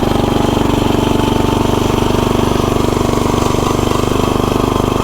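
Tecumseh 10 hp flathead single-cylinder engine running steadily at full throttle, driving the lawnmower in top gear, with its drive chain noisy. A faint whine rises slowly in pitch as the mower picks up speed.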